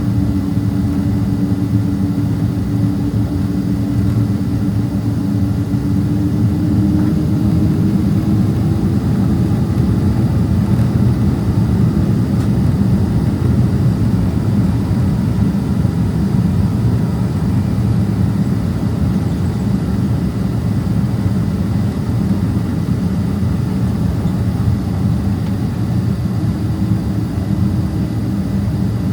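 Boeing 767-300ER jet engines running at low power, heard inside the passenger cabin as a steady hum while the airliner taxis onto the runway. A steady engine tone rises slightly a few seconds in and again near the end.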